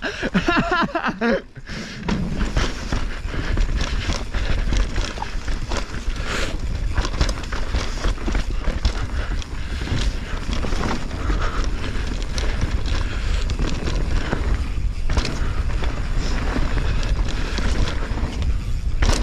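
Mountain bike riding fast down a rough dirt trail, heard from the rider's camera. Wind buffets the microphone over a constant rattle and clatter of tyres, chain and frame over bumps and roots.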